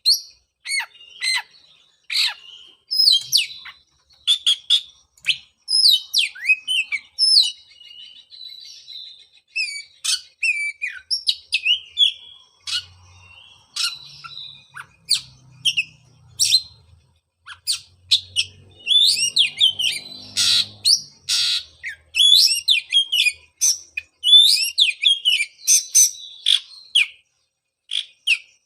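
Oriental magpie-robin singing a fast, varied song of short whistled and chattering phrases in quick bursts, with brief pauses between them.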